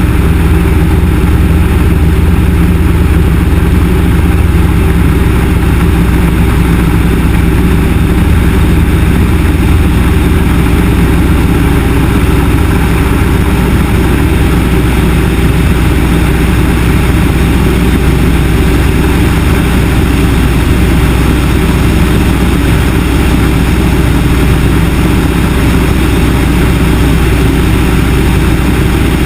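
Yak-18T's nine-cylinder radial piston engine (Vedeneyev M-14P) and propeller running steadily with a constant loud drone.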